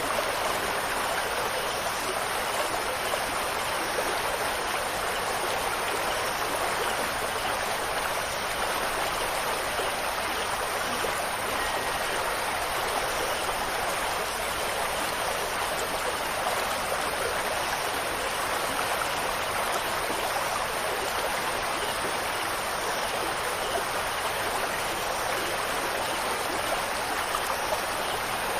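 Steady rushing water, an even, unbroken hiss with no separate drops or chime tones standing out.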